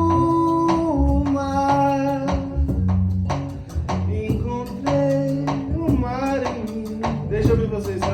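Live band music: a voice singing held, gliding notes over guitar and a sustained low bass line.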